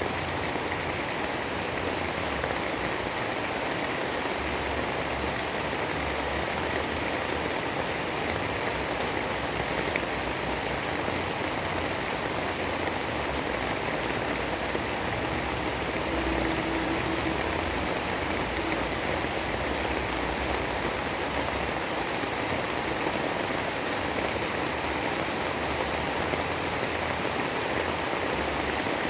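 Steady heavy rain, an even hiss with a low rumble underneath that never lets up.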